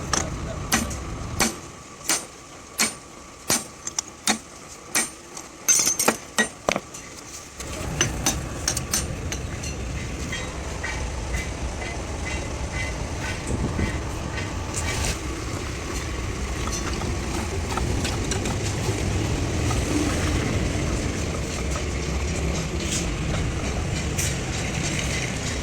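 A run of sharp knocks and clicks, then about eight seconds in a steady low rumble of a truck engine running.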